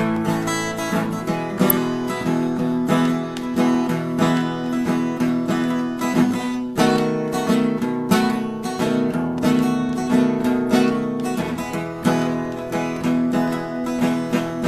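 Acoustic guitar played solo, strummed in a steady country rhythm during an instrumental break, with no singing.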